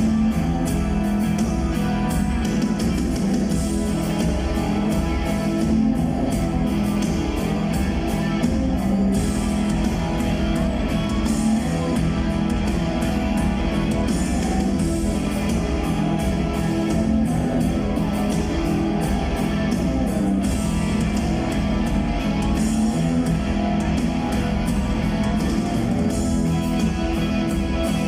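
Rock band playing live: an instrumental passage of electric guitars over a drum kit, running continuously without vocals.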